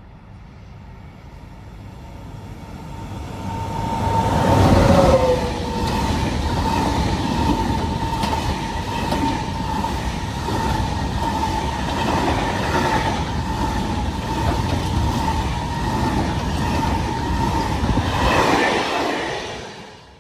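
A train approaching and passing close by. It grows louder over the first few seconds, a falling tone sounds as the head passes about five seconds in, then the cars roll past with a steady high ring and regular wheel clicks until the sound cuts off suddenly.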